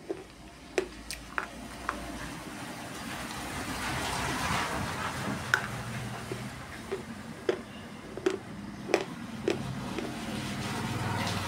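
Close-up chewing of something dry and crunchy: irregular sharp crunches, a few seconds apart at most, over a steady hiss that swells up around the middle.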